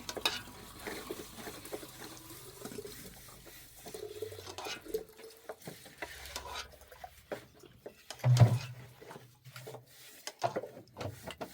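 Hands mixing bread dough with water in a bowl: irregular stirring, knocking and scraping with faint splashes, and one louder thud about eight seconds in.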